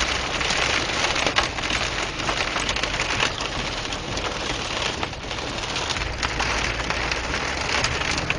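Rain pattering steadily in many fine ticks, with a low steady rumble underneath.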